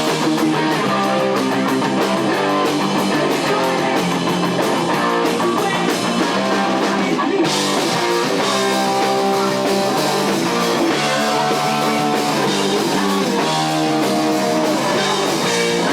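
Heavy metal band playing: electric guitars over a drum kit, loud and unbroken.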